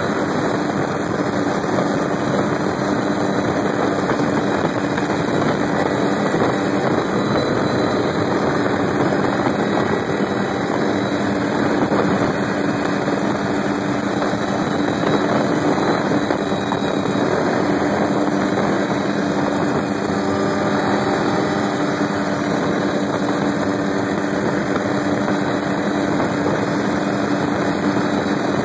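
Helicopter running steadily: a constant engine and rotor drone with a low steady hum, no change in level.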